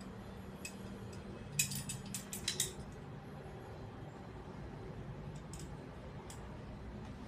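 A quick run of about six sharp clicks, over roughly a second starting a second and a half in, against a faint steady low hum.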